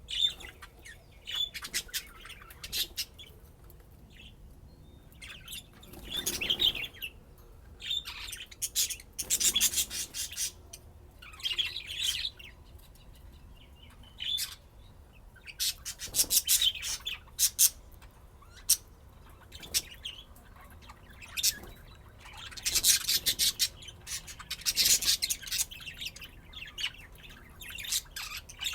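Pet budgerigars chirping and chattering in uneven bursts, with short quiet gaps between flurries of calls.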